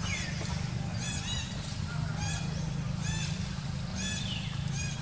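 A bird calling over and over in short arched notes, roughly one or two a second, over a steady low rumble.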